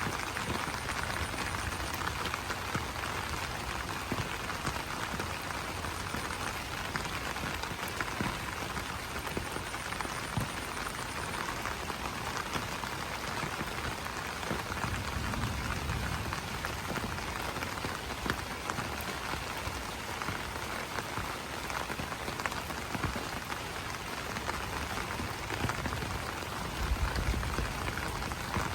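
Rain falling on broad banana leaves: a steady, dense patter of many individual drops. A low rumble comes in twice, about halfway through and near the end.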